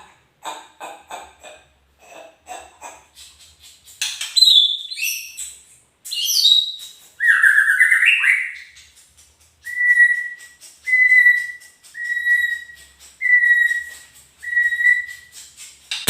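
White-rumped shama (murai batu) singing: short rapid chipping notes, then loud whistled phrases sliding up and down in pitch, then five clear whistles on one steady pitch, evenly spaced about a second apart.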